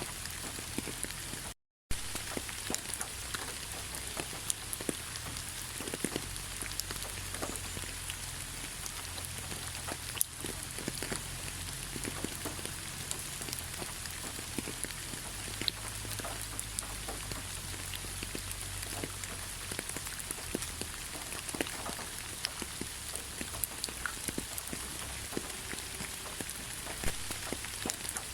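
Steady rain falling in a pine forest: an even hiss with many scattered individual drops ticking. The sound cuts out completely for a moment just under two seconds in.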